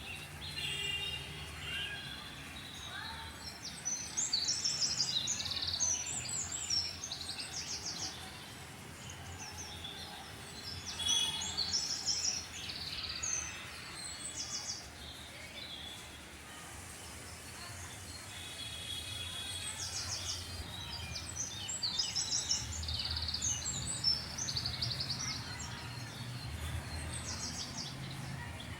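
Several songbirds chirping and singing, with short rapid trills coming in bursts over a faint low background hum.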